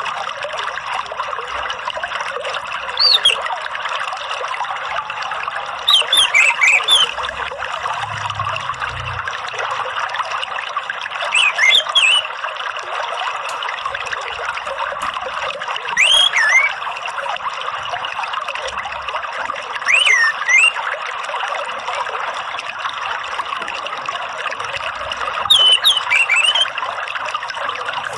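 Steady trickle of running water, with short bouts of loud, quick falling whistled bird calls about every four to five seconds, six in all: an orange-headed thrush lure recording played to get a caged bird singing.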